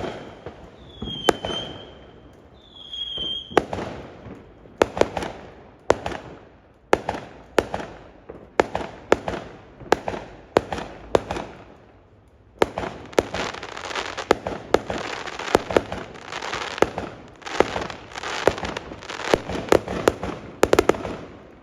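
Fireworks going off: two whistling fireworks near the start, then a series of sharp bangs. About halfway through they build into a dense barrage of rapid bangs and crackle, which stops suddenly near the end.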